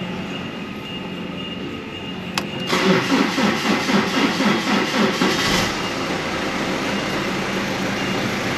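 BMW E90's engine being jump-started on a flat battery: a click, then about three seconds of rhythmic starter cranking before the engine catches and settles into a steady idle.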